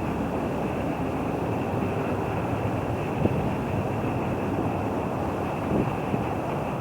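Train rumbling steadily past on the track, with a single sharp click about three seconds in.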